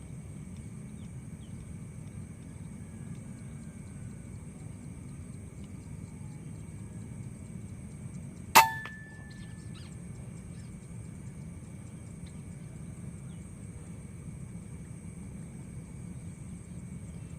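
A single shot from an Air Arms PCP air rifle about eight and a half seconds in: a sharp crack followed by a brief ringing tone. Under it is a steady low rumble of outdoor noise and a constant high whine.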